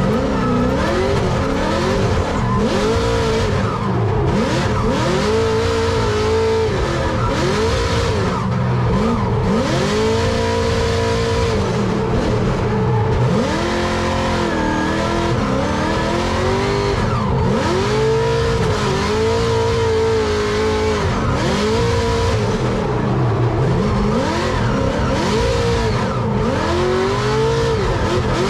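Drift car's V8 engine under hard throttle, revving up and bouncing near the limiter, then dropping, over and over every second or two, with tyres squealing as the car slides through a drift course.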